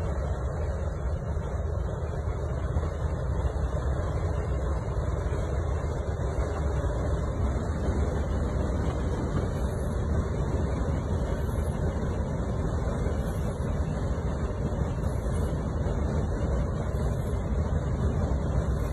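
Steady rumble of a truck driving on the road: engine and tyre noise, deep and even throughout.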